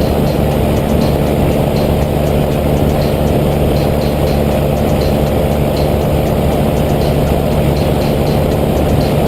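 Small electric motor of a homemade toy helicopter running steadily, a constant whirring hum.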